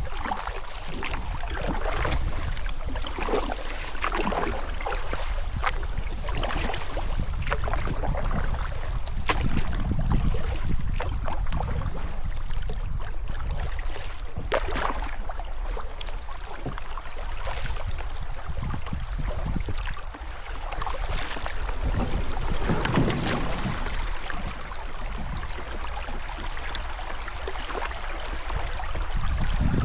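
Steady rushing of river water around a stationary kayak, with a constant low rumble of wind on the microphone.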